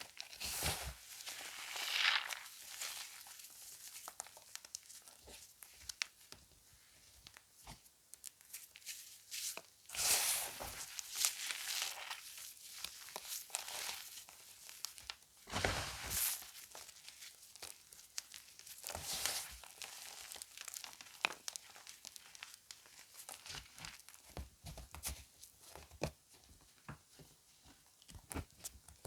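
Gym chalk crunching and crumbling close to the microphone: a run of crisp crackles, with louder crunching bursts about two, ten, sixteen and nineteen seconds in.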